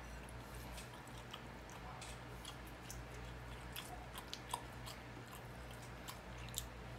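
Close-up chewing of shrimp, with scattered faint clicks and crackles of the shell being peeled off by hand, a cluster of them about four seconds in. A steady low hum runs underneath.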